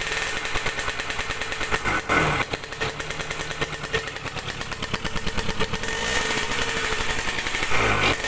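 Yamaha RS100's single-cylinder two-stroke engine running at idle through a bored-out exhaust muffler, the firing pulses rapid and even. A quick blip of the throttle comes about two seconds in, and another near the end.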